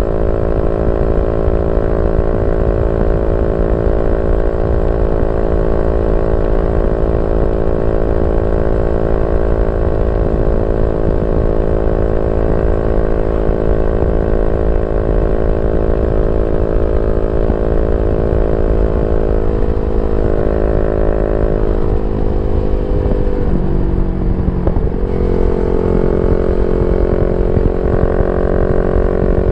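Yamaha Y15ZR's 150cc single-cylinder four-stroke engine running through a YYPANG SD3 aftermarket exhaust, holding a steady note. About three-quarters of the way through, the engine note slides down and settles at a new, lower steady pitch.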